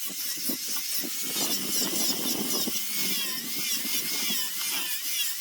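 High-speed handheld electric rotary tool sanding a zelkova root. Its whine wavers up and down in pitch as it is pressed against the wood, over a scratchy grinding noise.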